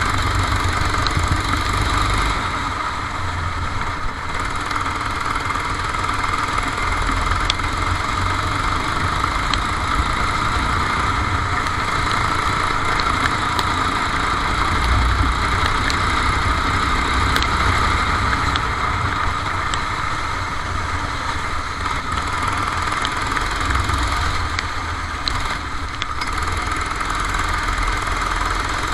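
Racing kart's engine running steadily through a lap, heard from an onboard camera, with a heavy low rumble underneath.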